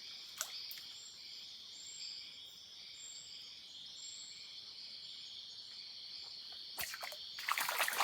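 Steady high-pitched chorus of insects in the rainforest, with a fainter higher call pulsing over it. Near the end comes a flurry of sharp knocks and splashing.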